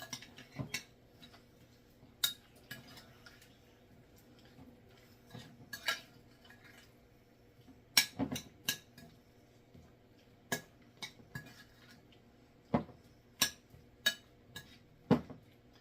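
A utensil clinking and scraping against a mixing bowl as a mayonnaise-dressed broccoli and tomato salad is stirred, with scattered, irregular knocks.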